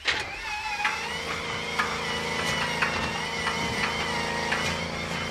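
A Boeing B-29 Superfortress's radial engine being cranked over by its starter, with a steady mechanical drone, a wavering whine above it and scattered clicks. The engine does not catch.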